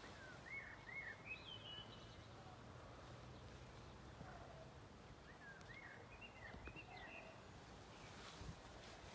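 Faint bird chirps over quiet outdoor background: a few short chirps shortly after the start and another group about two-thirds of the way through.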